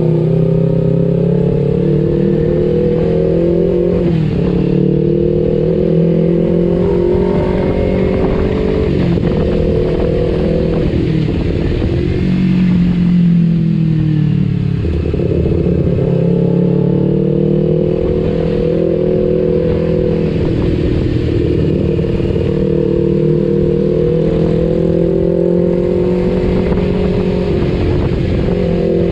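Kawasaki Ninja 250FI parallel-twin engine breathing through an R9 H2 aftermarket exhaust while riding, its pitch rising and falling with the throttle and dropping sharply a few times.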